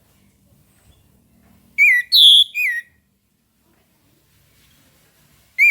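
Orange-headed thrush (anis merah) singing: a short phrase of three clear whistled notes, each sliding down in pitch, the middle one higher and loudest. The same phrase starts again near the end.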